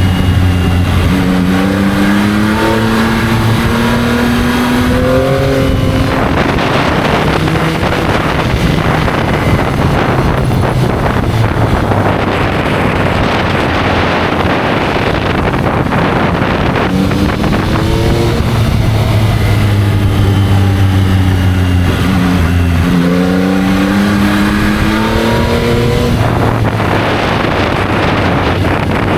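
Yamaha motorcycle engine accelerating, its pitch rising in steps through the gears, with a gear change about two-thirds of the way in. In between, the engine is masked by heavy wind rush at speed.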